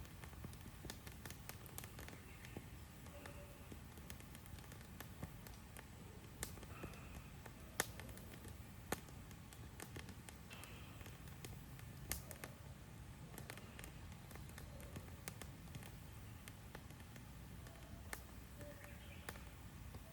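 Wood campfire crackling quietly: irregular sharp pops and snaps of burning wood, with a couple of louder pops partway through, over a soft low rumble.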